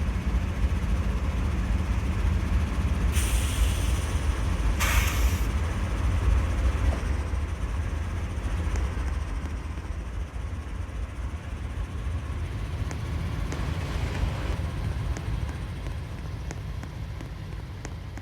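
Freight train rumbling by, a steady low rumble that slowly fades toward the end, with two short hissing bursts about three and five seconds in.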